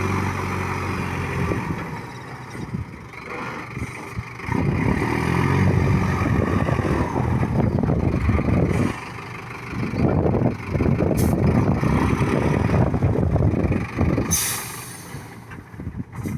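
All-wheel-drive truck engine labouring through an axle-deep stretch, its rough, uneven drone rising and falling with the load. A short sharp hiss near the end.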